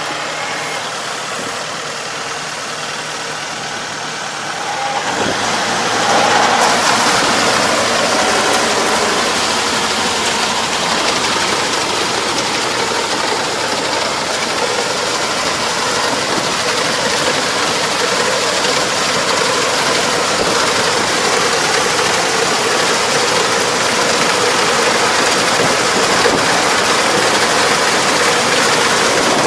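Farm machine engine running steadily, joined about five seconds in by a louder, even rushing noise that continues.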